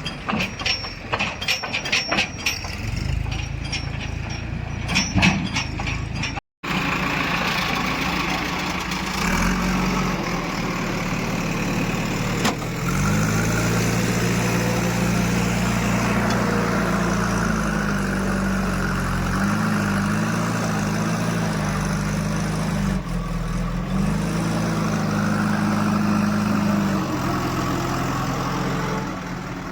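A heavy diesel machine engine running, its revs rising and falling repeatedly as it works. It opens with a rapid clatter of knocks, then breaks off briefly before the engine note takes over.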